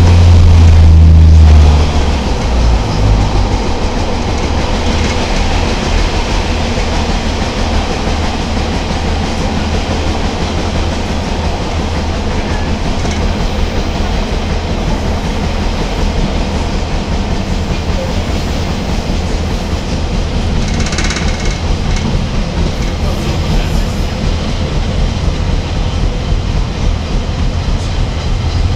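Class 143 Pacer diesel railcar travelling along the line, heard on board: a loud low engine drone for the first couple of seconds, then settling to a steady running noise of engine and wheels on the track.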